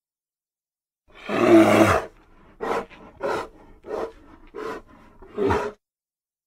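Bear vocal sound effects: one loud growling roar of about a second, starting a second in, then five short grunts in a roughly even series.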